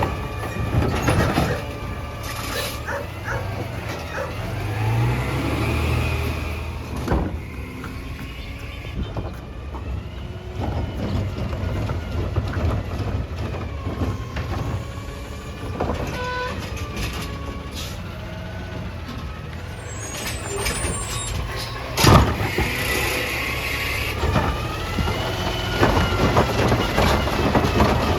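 Peterbilt 320 garbage truck running, its engine pitch rising and falling, with scattered clanks and short hisses. One sharp loud bang comes a little past two-thirds of the way through.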